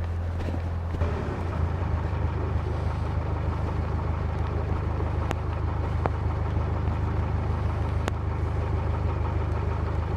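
Narrowboat's diesel engine running steadily with a low, even hum, its level rising slightly about a second in. A few sharp clicks sound over it.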